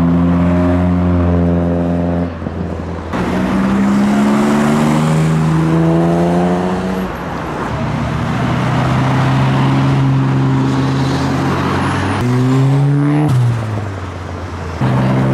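Car engines accelerating past, the pitch climbing and then dropping back several times as they shift up through the gears.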